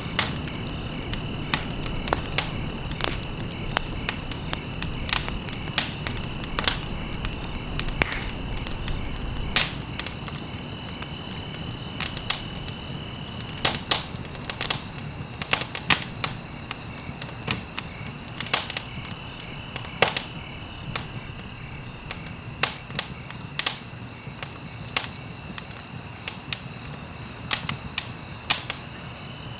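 Wood fire crackling: irregular sharp pops and snaps over a low, soft rumble of burning, with a faint steady high-pitched tone underneath.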